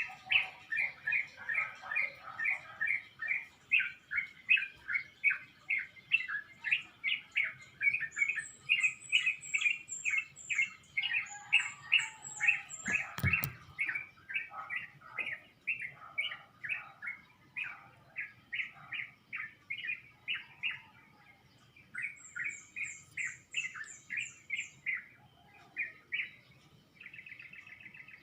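Dawn chorus of small birds: a steady run of quick repeated chirps, about three a second, with a higher, thinner series of notes from another bird twice. A single sharp click about thirteen seconds in.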